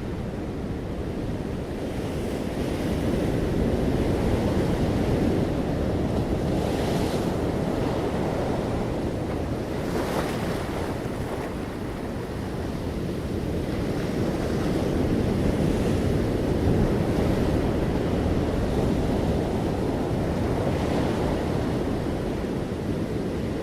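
Ocean waves breaking and washing on a shore: a continuous surf rumble that swells and eases slowly, with a few brief brighter hisses of breaking foam.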